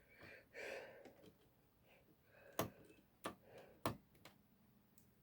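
Quiet handling of a precision screwdriver and its small bits and screws, with faint rustling in the first second and then three sharp clicks about two-thirds of a second apart.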